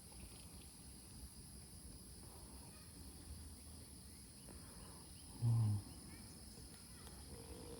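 Steady, high-pitched drone of insects (crickets or cicadas) singing in the background, with a brief low thump or short sound about five and a half seconds in.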